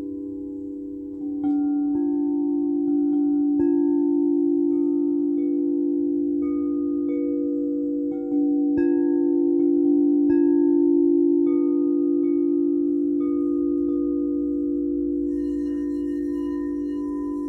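A singing bowl sounds a strong, steady low hum while chimes ring out a scattered run of short, higher notes over it. Near the end a further bright metal tone with many overtones joins in.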